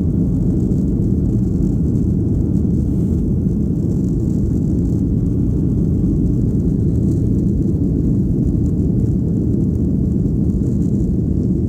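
Steady low rumble of a Boeing 737-800 in flight, heard from inside the cabin: its CFM56-7B engines and the airflow over the fuselage.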